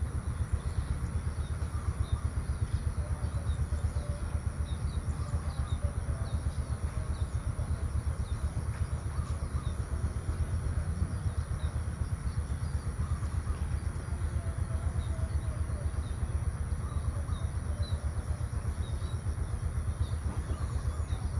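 Countryside ambience: small birds chirping briefly and often, over a steady high-pitched hum and a constant low rumble.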